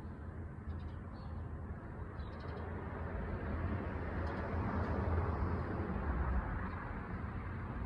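Outdoor background rumble like distant road traffic, growing louder in the middle and easing off near the end, with a few faint high chirps in the first few seconds.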